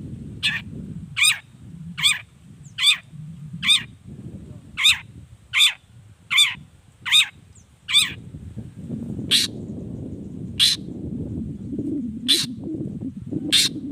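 Long-tailed shrike (cendet) giving a run of short, harsh calls. They come about one every 0.7 s at first and slow to one every second or so after about 8 s. A low rumble runs underneath.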